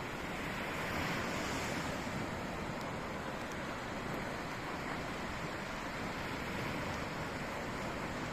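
Sea surf washing steadily on the shore, with a wave swelling up about a second in.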